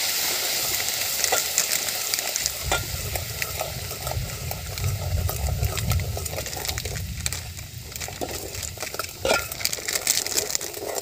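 Oil and spice masala sizzling in a steel pot over a wood fire as chilli powder is shaken in, with scattered light clicks throughout and a low rumble in the middle.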